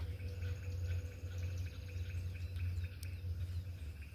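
Outdoor ambience: a steady low rumble with faint, steady insect calls over it, and a single faint click about three seconds in.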